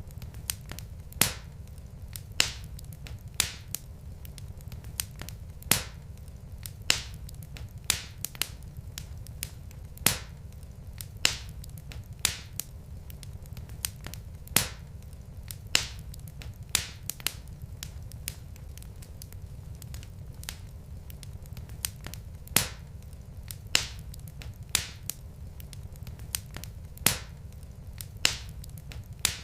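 Wood fire of burning logs in a fireplace, crackling with irregular sharp pops about one or two a second over a steady low rumble.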